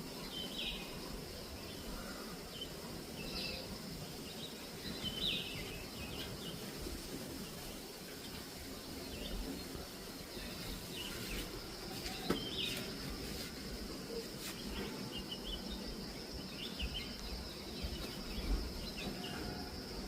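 A bird giving short, scattered chirps every second or so, over a steady high-pitched drone and faint background noise.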